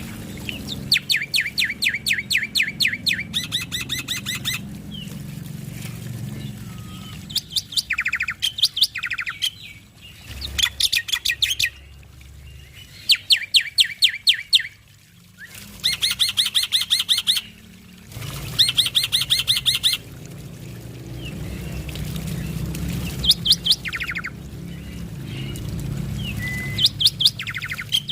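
Male black-winged starling (jalak putih) in full song: phrases of rapid, evenly repeated sharp notes, each lasting a second or two, broken by short pauses. A low steady hum runs underneath.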